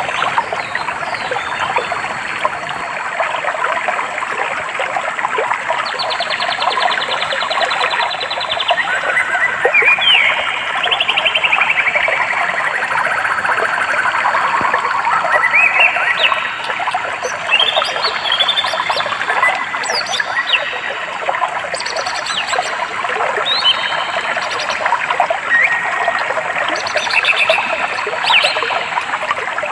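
A stream runs with a steady rush of water. From about six seconds in, birds call and trill repeatedly over it in short, stepped phrases.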